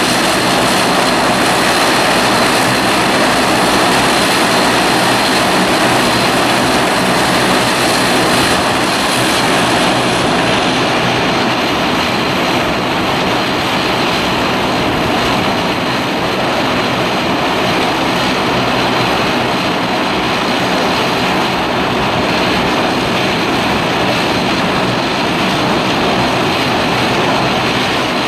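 Jet airliner engines running, a loud steady rush of noise with a thin high whine.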